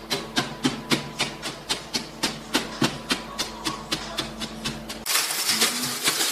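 Rapid, evenly spaced tapping, nearly four taps a second, over a low hum. About five seconds in it cuts off abruptly to a dense scraping, rustling noise.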